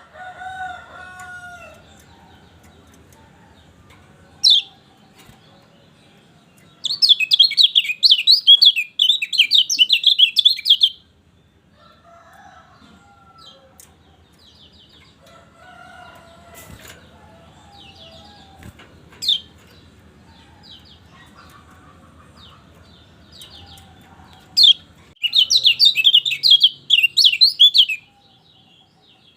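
Kecial kuning (yellow white-eye) song: two bursts of rapid, high twittering chatter, several seconds each, with single sharp high call notes between them and softer, lower chirps in the gaps.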